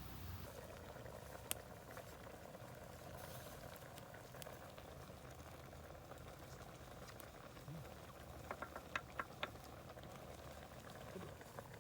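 A pot of stew bubbling steadily over a campfire, with a few sharp clicks, a little cluster of them about nine seconds in.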